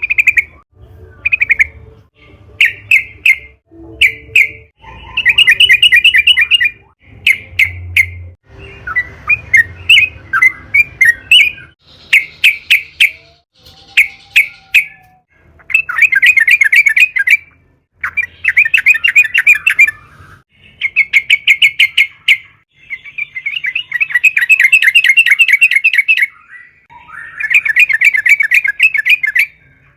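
Yellow-vented bulbul singing vigorously: loud phrases of rapid, bubbling notes, repeated one after another with short gaps, mixed with brief sharp notes.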